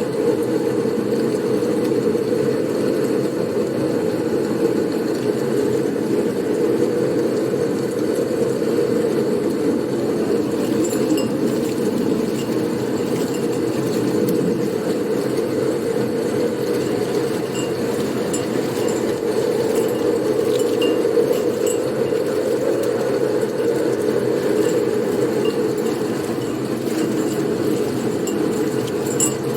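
Blizzard wind blowing as a steady, low, even rush. From about ten seconds in, faint scattered light clinks sound over it.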